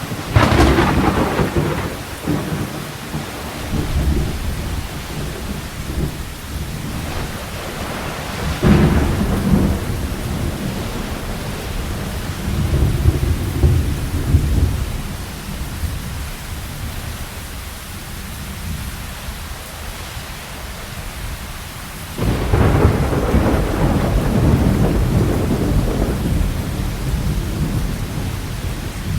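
Steady rain with rolling thunder: a sharp clap just after the start, further rumbles around a third and halfway through, and a long rumble that breaks in suddenly near the last quarter.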